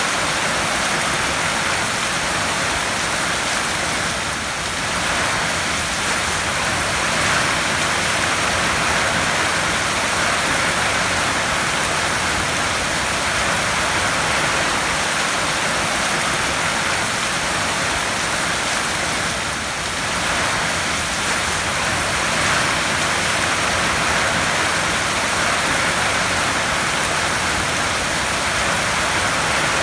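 Heavy rain falling steadily on a tin roof, a dense even hiss that eases slightly for a moment twice.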